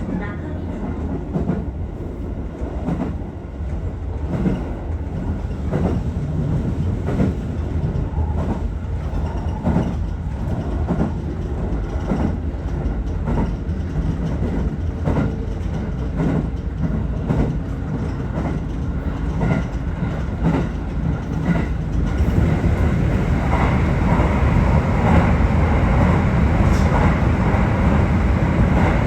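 Aichi Loop Railway 2000 series electric train running along the line, heard from on board: a steady rumble with repeated clicks of the wheels over rail joints. About three-quarters of the way through, the running noise grows louder and rougher.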